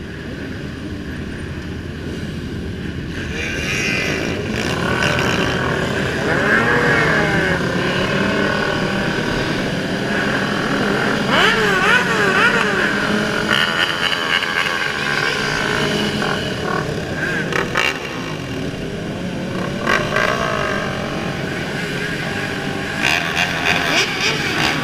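Several motorcycle engines revving and riding by, their pitches rising and falling as throttles open and close. The sound grows louder a few seconds in.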